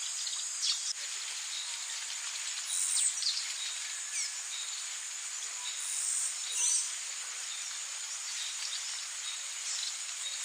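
Rainforest ambience: a steady, high-pitched insect chorus with scattered bird calls, including short falling calls about three seconds in and again around six to seven seconds.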